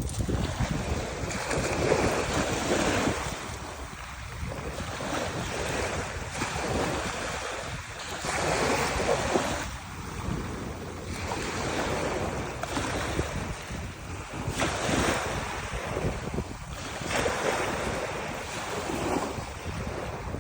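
Wind buffeting the microphone in uneven gusts that swell and ease every few seconds, over the wash of the sea.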